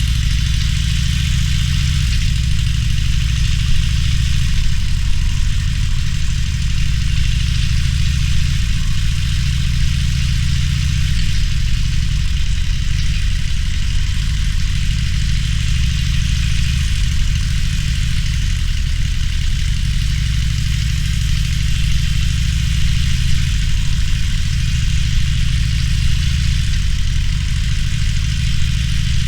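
Harley-Davidson Roadster's air-cooled V-twin engine running steadily at low revs, a deep throb with small changes in pitch and no hard revving, over a steady hiss of wind and road noise.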